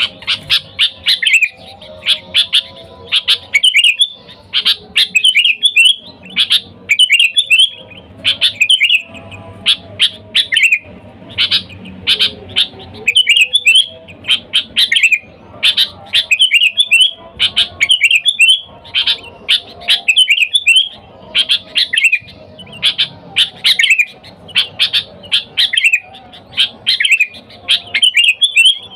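Sooty-headed bulbul calling loudly and persistently, with short bubbly clusters of chirping notes repeated about once a second.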